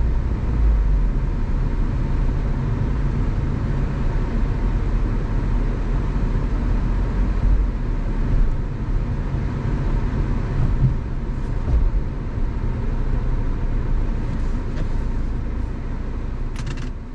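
Car driving slowly, a steady low engine and road rumble that eases off near the end as it comes to a stop, followed by a few sharp clicks at the very end.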